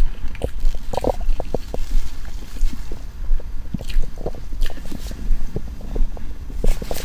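Stomach and bowel sounds: scattered short wet gurgles and squishes, with a longer gurgle about a second in, over a steady low rumble.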